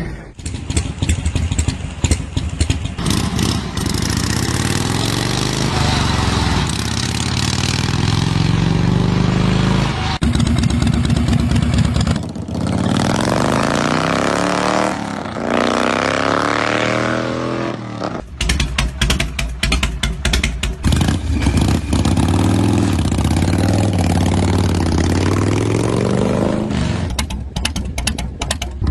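Harley-Davidson motorcycle engines, several in turn, running and being revved, the pitch climbing and falling with each blip of the throttle. The sound changes abruptly about twelve seconds in and again about eighteen seconds in, as one bike gives way to the next; the middle stretch has the highest, longest revs.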